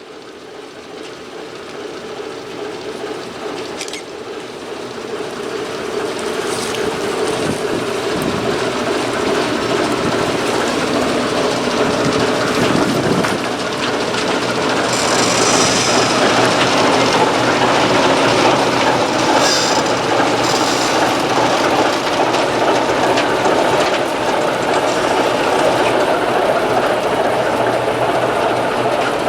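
TEM2 diesel shunting locomotive setting off and rolling along the track, its diesel engine running and growing louder over the first ten seconds or so, then steady. Brief wheel squeals come twice around the middle.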